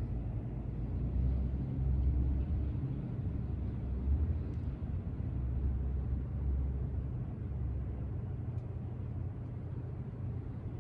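Low, steady rumble of outdoor city waterfront ambience, with no clear single source and slight swells about two and four seconds in.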